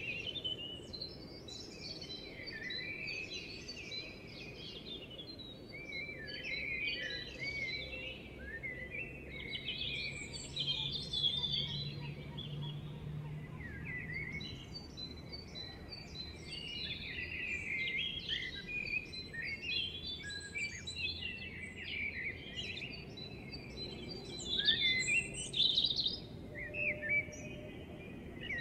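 Birds chirping and twittering without a break, many short high calls overlapping.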